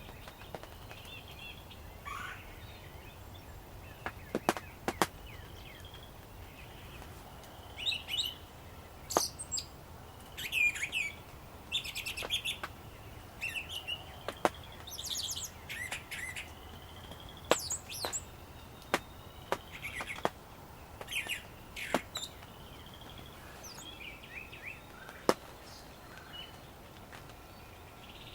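Songbirds singing in short, warbling phrases, busiest in the middle stretch. Scattered sharp ticks of raindrops hitting the ground blind are the loudest sounds.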